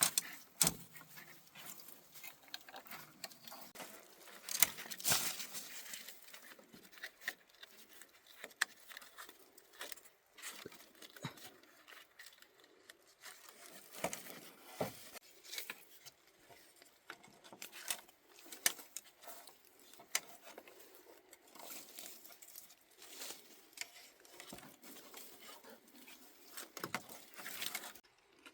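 Rustling, crackling and irregular light clicks and knocks, as natural building materials are handled by hand, with no steady machine or voice.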